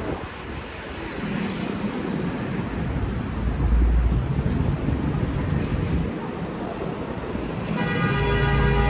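City street traffic rumbling, with gusts of wind buffeting the microphone and swelling about halfway through. A vehicle horn starts sounding near the end, held steady.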